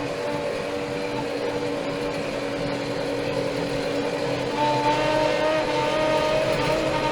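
Steyr 4075 Kompakt tractor's four-cylinder Fiat Powertrain diesel engine running steadily. About four and a half seconds in, a higher whine joins and the sound gets a little louder.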